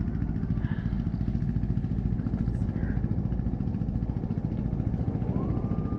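BMW R1200GS motorcycle engine running steadily with a low, even rumble. Near the end a thin whine rises in pitch and then holds.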